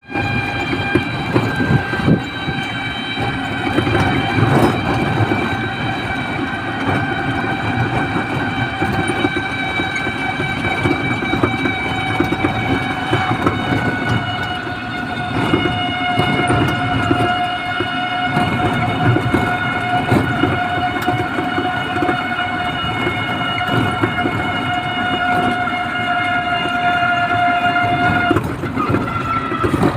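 A vehicle running with a steady whine of several held tones over rumble and rattle. The whine shifts slightly about halfway through and drops near the end.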